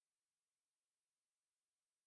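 Silence: a gap between two background music tracks.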